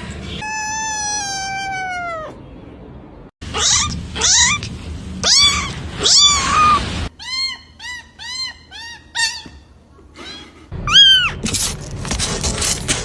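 Cat meowing repeatedly. First comes a long meow that slides down in pitch, then a series of meows, a quick run of short meows, and a loud meow near the end.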